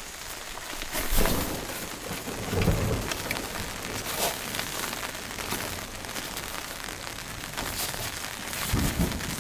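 Steady rain with low rumbles of thunder, and the nylon seat of a Big Agnes folding camp stool rustling as it is pulled onto the stool's metal frame.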